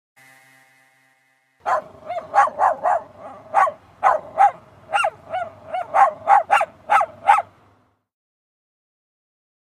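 A dog barking in a quick series of about fifteen short, sharp barks over some six seconds, which then stop.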